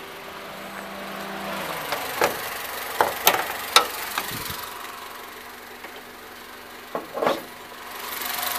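Honda D17A1 1.7-litre four-cylinder engine of a 2002 Civic idling steadily, with a run of sharp clicks and clunks about two to four seconds in and again near the end as the hood is unlatched and raised.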